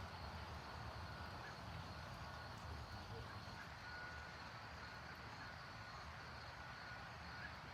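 Faint, steady city ambience: a low rumble of distant traffic, with a few short, thin bird chirps scattered through it.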